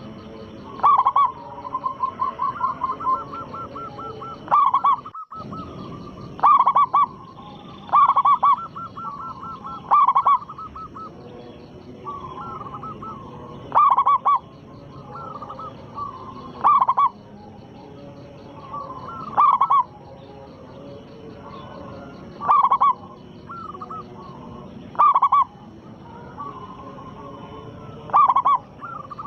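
Local-type zebra dove (perkutut) singing: a loud cooing phrase about every two to three seconds, with softer quick runs of coo notes between the phrases.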